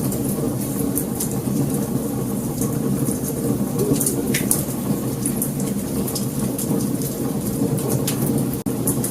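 Wood fire crackling: scattered sharp pops and snaps over a steady low rumble of burning. The sound drops out for an instant near the end.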